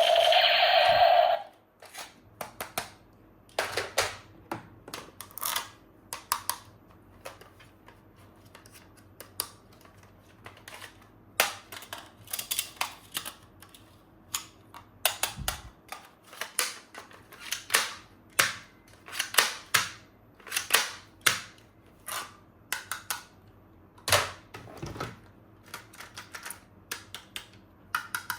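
Hard plastic toy gun parts being handled: irregular sharp clicks and clacks, several a second. A steady electronic tone runs at the start and cuts off about a second and a half in.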